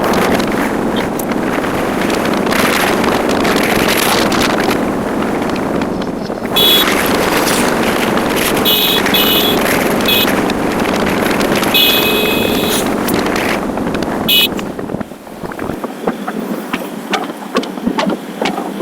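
Motorcycle riding: steady rush of wind over the microphone mixed with engine and road noise. A few short high-pitched tones sound in the middle, and the noise drops and turns uneven near the end.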